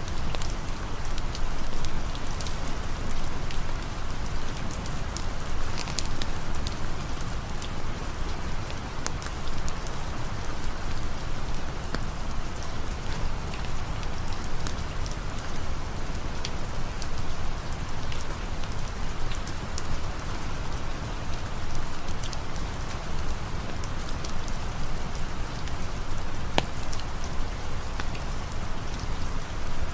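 Steady rain falling, with many small drop ticks over a low, even rumble. A campfire may crackle faintly within it.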